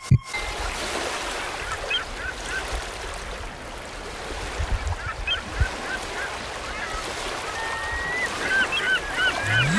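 Birds calling in short runs of quick chirps over a steady outdoor wash of noise, with a brief drawn-out whistled note near the end.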